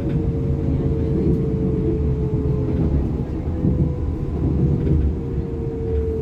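Inside a DB Class 425 electric multiple unit under way: steady rumble of the wheels on the rails with a thin electric traction-motor whine that slowly falls in pitch as the train slows.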